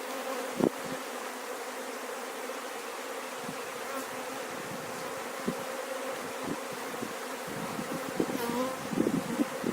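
Honeybees buzzing in a steady, continuous hum over an open hive, with a few soft knocks from handling the hive.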